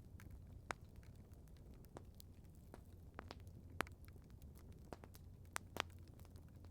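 Wood campfire crackling softly: scattered sharp pops and ticks at irregular intervals, a few louder snaps about a second in, near the middle and near the end, over a faint low steady hum.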